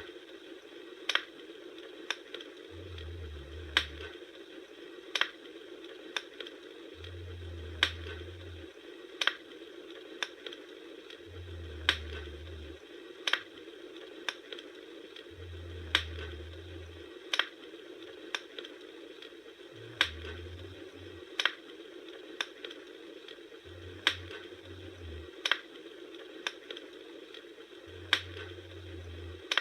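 Wood fire crackling: a steady hiss with sharp pops every second or two, and a low rumble that comes and goes every few seconds.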